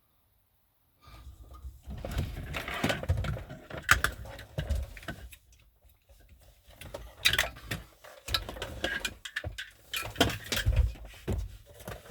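Irregular clicks, knocks and rustling of something being handled, starting about a second in and coming in clusters with short pauses.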